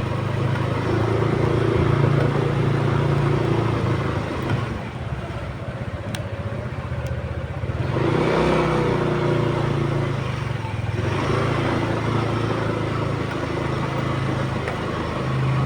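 Motorcycle engine running while riding, with road and wind noise; the engine eases off about four to five seconds in and picks up again around eight seconds.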